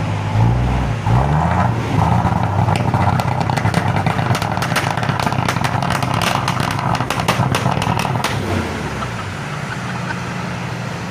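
Isuzu 6HE1 diesel truck engine running, its pitch rising and falling, with a rapid string of sharp pops from about 3 to 8 seconds in, typical of the misfiring and backfiring this engine has.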